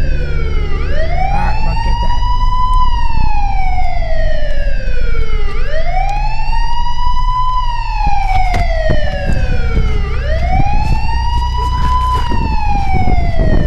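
Siren wailing in long slow cycles, each rising over about two seconds and falling away over about three, about three times, over the low rumble of a car driving.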